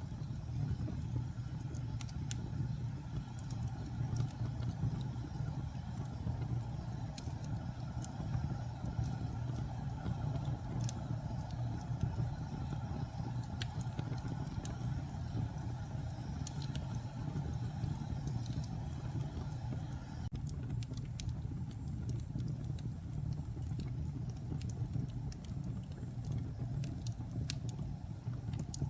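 Wood fire burning in a fireplace: a steady low rumble of the flames with scattered sharp crackles and pops, which come more often in the last third.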